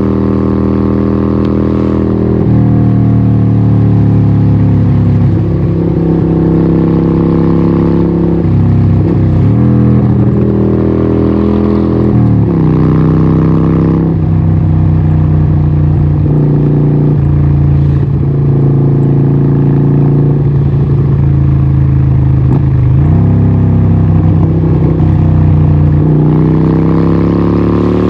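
Harley-Davidson 1200 Nightster's 1200cc Evolution V-twin running through a Vance & Hines exhaust, loud throughout. Engine speed shifts down and up several times, dropping about two and a half seconds in and again about twelve seconds in, and rising near the end.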